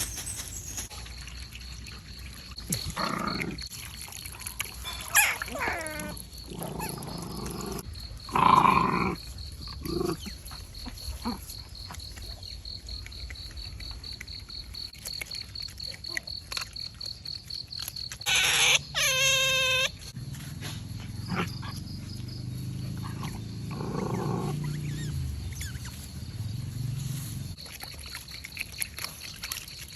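Wild otters calling: short growls and squeaks, with one long squeal about two-thirds of the way through and low growling after it.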